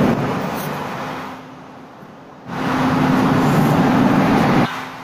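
Rumble and steady hum of a passenger train moving at a railway station. The noise sinks for about a second midway, comes back loud, and cuts off abruptly near the end.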